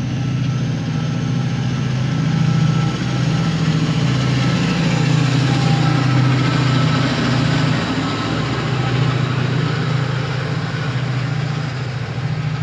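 Chiltern Railways Class 68 diesel locomotive, with its Caterpillar V16 engine, running close by with its Mark 3 coaches: a loud, steady low engine note with train noise over it.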